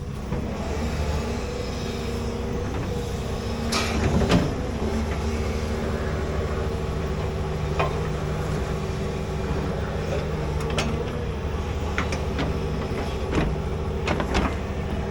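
Large excavator's diesel engine running steadily under work, with scattered metallic clanks and knocks, the loudest about four seconds in.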